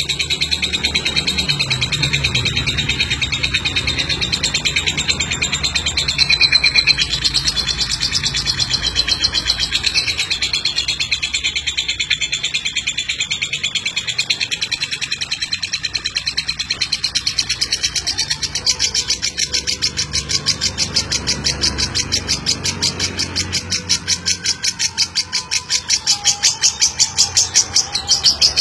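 Lovebird singing its long, unbroken 'ngeklek' chatter: a fast stream of rapidly repeated high notes. It grows more even and louder in the last third.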